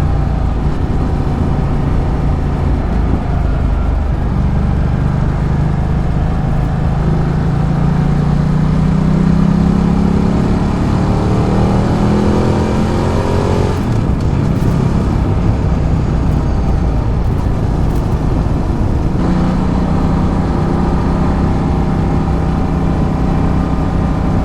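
Ducati Multistrada 1200's L-twin engine under way: its pitch climbs steadily for several seconds, falls away sharply about fourteen seconds in, and holds steady after that, over a rush of road and wind noise.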